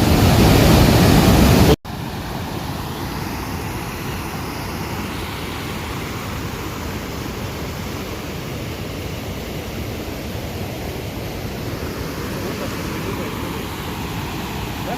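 Waterfall's rushing water, a steady noisy rush. About two seconds in it cuts off abruptly and resumes at a lower level.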